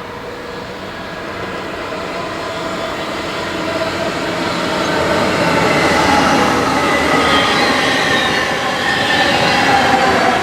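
A train running through the station, growing steadily louder over the first half and then staying loud, with a rushing rail noise and several whining tones that slide slightly lower in pitch.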